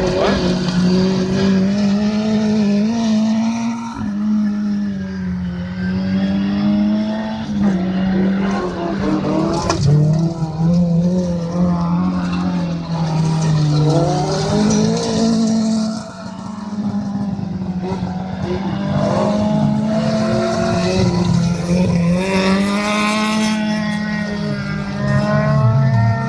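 Autocross race cars' engines running hard, their pitch climbing and dropping over and over as the drivers accelerate, shift and lift off.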